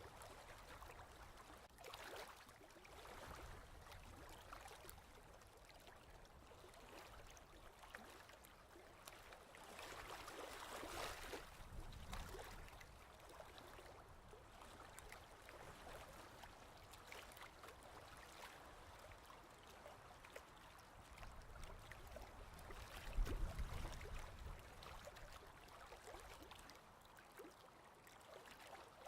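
Faint sound of ocean waves washing, swelling about ten seconds in and surging again, deeper and louder, a little before the end.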